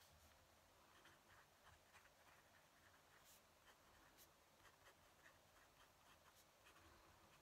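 Fountain pen nib scratching faintly on paper in short, irregular strokes, with a few sharper ticks.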